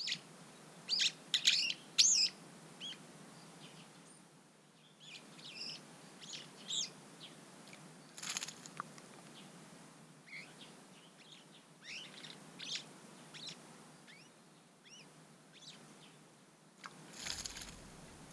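Small garden songbirds chirping and calling again and again, with several loud, sharp calls in the first two seconds and fainter chirps after. Two short noisy rushes, one about eight seconds in and one near the end.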